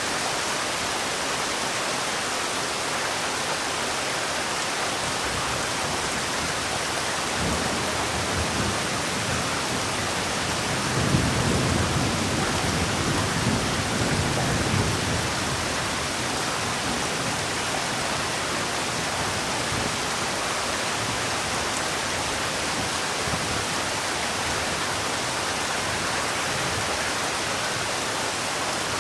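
Heavy rain falling steadily with a dense, even hiss. About a third of the way in, a low rumble of distant thunder swells for several seconds, then fades back into the rain.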